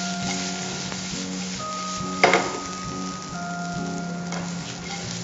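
Chicken pieces sizzling as they fry in ghee in a pan while being stirred and tossed. There is a brief, louder clatter about two seconds in.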